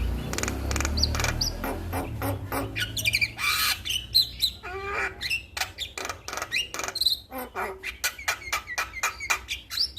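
Male Javan myna (jalak kebo) singing: a rapid, varied run of sharp clicks and whistled notes that glide up and down, with hardly a pause.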